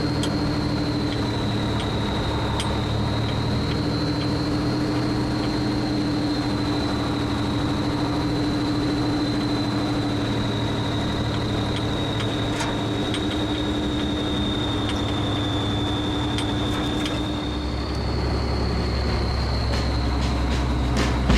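M52A2 6x6 military truck engine running steadily, a deep drone with a steady high whine over it. About 18 seconds in, the low rumble gets louder and the whine rises a little in pitch.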